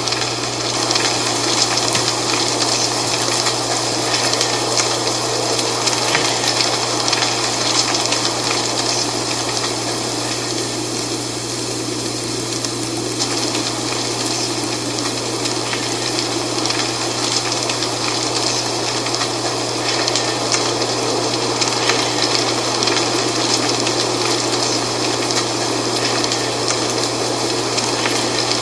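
Dry fall leaves rustling in a steady wind: a dense, crackly hiss that eases a little around the middle and then swells again.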